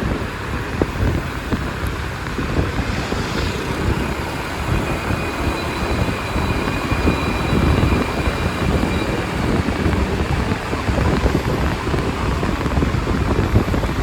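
Wind buffeting the microphone over the running of a motorbike taxi and the surrounding traffic, heard from the back of the moving bike. A faint steady high whine comes in for a few seconds near the middle.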